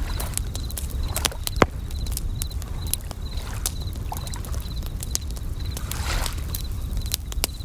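Campfire crackling with sharp pops, bell crickets (suzumushi) chirping in short high trills about twice a second, and waves washing over a low steady rumble; a wave swells a little after six seconds in.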